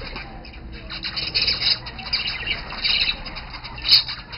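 Budgerigars chattering and squawking in quick, busy bursts, with one sharp, loud squawk near the end.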